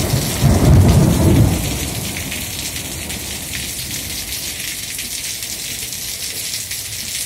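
Heavy rain pouring down in a steady hiss, with a low rumble of thunder about a second in that fades away.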